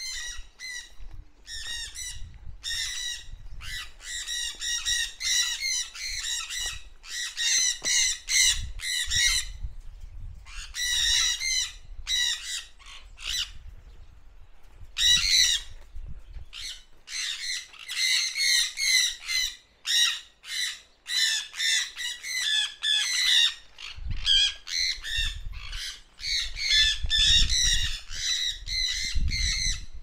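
Birds squawking over and over in harsh, rapid bouts, with short lulls in between.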